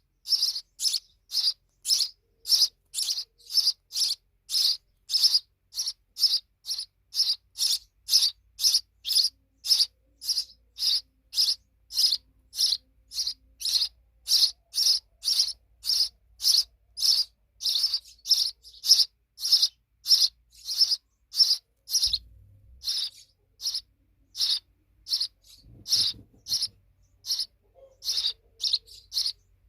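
A sparrow chirping over and over in short, evenly spaced single chirps, about two a second.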